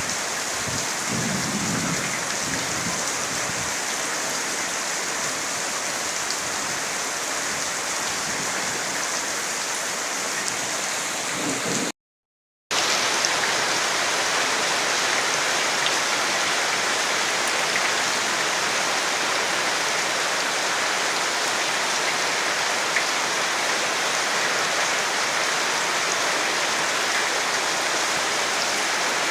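Steady rain falling, a dense even hiss, with a brief low rumble in the first few seconds. The sound cuts out completely for under a second about twelve seconds in, then resumes.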